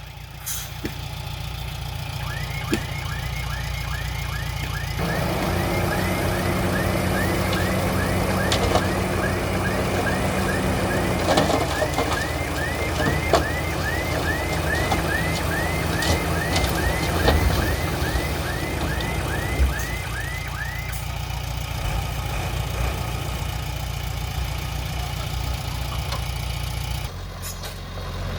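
Diesel engine of heavy earthmoving machinery running steadily, growing louder for a stretch in the middle. Over it, a repeated short high chirp sounds about twice a second for most of the stretch.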